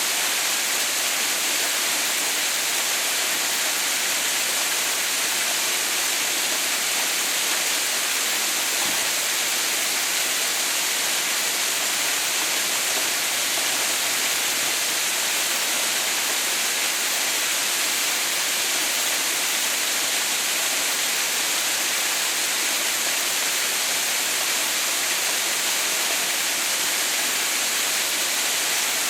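Waterfall: water pouring down in a steady, unchanging hiss-like rush, brightest in the high range, with no other events.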